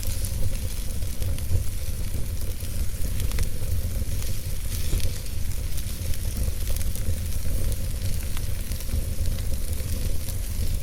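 Wood logs burning in a fireplace, crackling with many small irregular pops over a steady low rumble and hiss.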